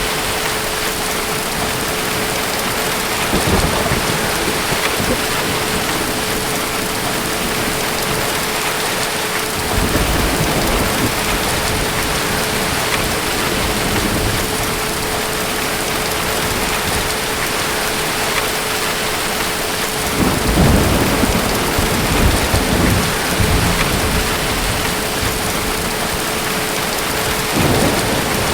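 Steady rain with distant thunder rumbling four times. The longest and loudest rumble comes about twenty seconds in. A faint steady hum runs underneath.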